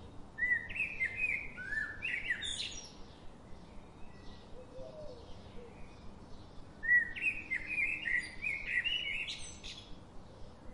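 A bird singing two quick warbled phrases of chirps, about six seconds apart, with a faint regular ticking underneath.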